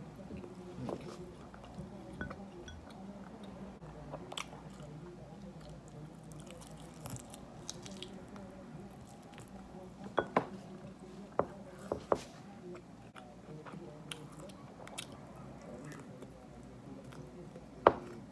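Close-up mouth sounds of someone eating a chicken wing: chewing, with sharp wet smacks and clicks from the lips and from sucking the fingers clean. Several come in a cluster about ten to twelve seconds in, and the loudest comes near the end, over a low steady hum.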